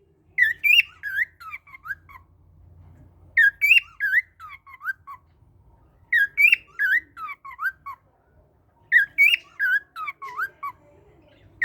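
A songbird singing the same phrase four times, about every three seconds: a quick run of clear whistled notes, each one slurring up or down.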